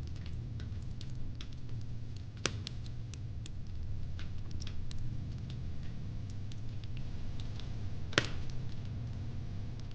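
Wood fire crackling, with irregular sharp pops and snaps, the loudest about eight seconds in, over a steady low rumble.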